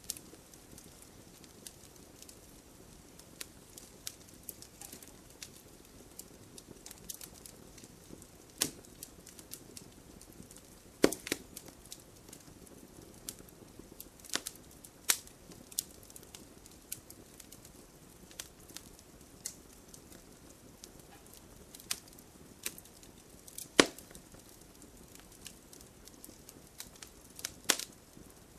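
Wood fire crackling over a soft steady hiss, with irregular sharp pops, a few of them much louder than the rest.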